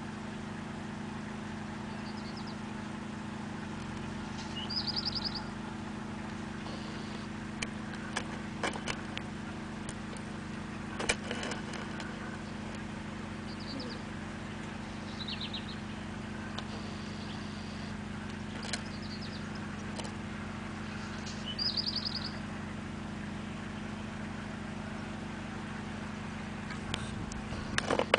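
A steady low hum under short, high, trilled chirps from a small bird, heard several times, with a few faint clicks.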